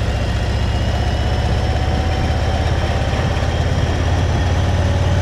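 Motorcycle engine running at low, steady revs while riding.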